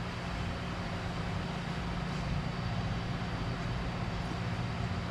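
A steady machine hum with a constant low tone over an even background noise, unchanging throughout.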